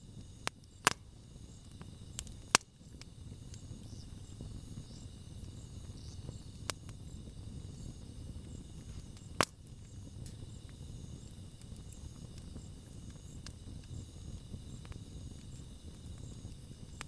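Wood campfire burning with a low, steady rustle of flame and scattered sharp crackling pops. The loudest pops come about a second in, at two and a half seconds, and just past the middle.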